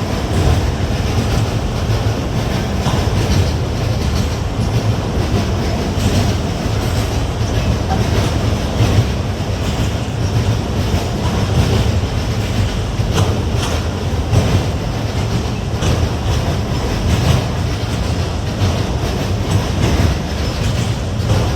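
Freight train rolling past: a steady low rumble of the cars, with wheels clicking over rail joints now and then.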